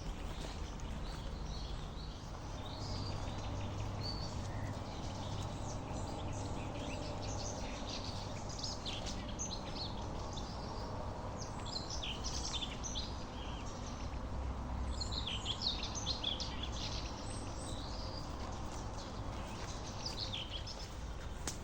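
Small birds chirping and twittering, in busy flurries in the second half, over a steady low rumble of outdoor background noise.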